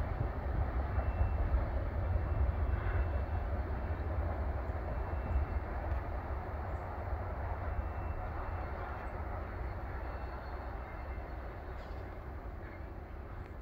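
Freight train rumbling away into the distance, a low, steady rumble that slowly fades.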